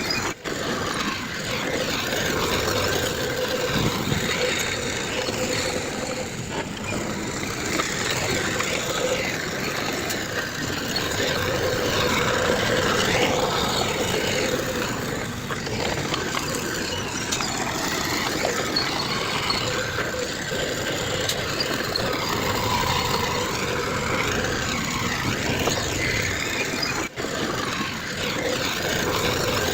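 Heavy earthmoving machinery engines running steadily on a land-fill site, with two brief dropouts, one about half a second in and one near the end.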